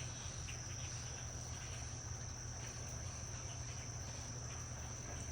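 Crickets trilling steadily as one continuous high-pitched tone, over a low steady rumble.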